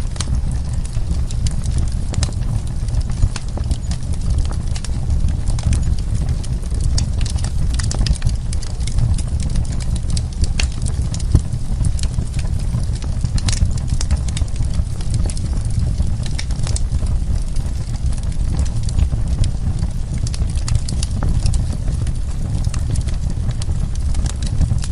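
Wood fire burning: frequent irregular crackles and sharp pops over a steady low rumble of the flames.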